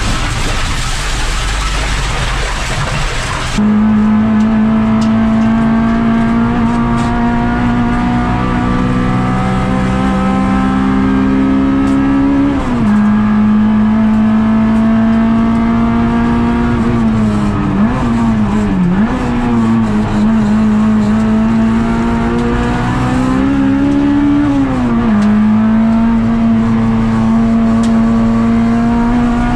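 Honda Integra Type R DC2's tuned 1.9-litre four-cylinder engine running at high revs on track, heard from inside the cabin: a steady hard-working note whose pitch climbs slowly, drops about 13 seconds in, dips and recovers around the middle and climbs then falls again near 25 seconds as the driver works through the corners. The first few seconds are a loud rushing hiss instead.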